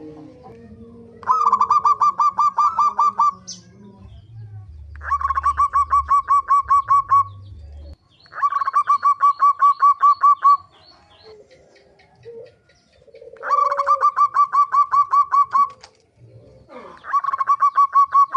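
Zebra dove (perkutut) cooing: five phrases of rapid staccato coos, each about two seconds long and a few seconds apart.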